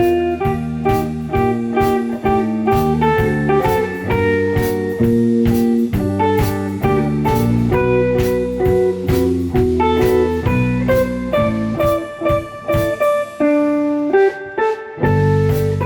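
Live ensemble music in a jazz-pop style: a bluesy instrumental with a bass line, plucked-string melody and a steady beat. The bass drops out briefly near the end, then comes back in.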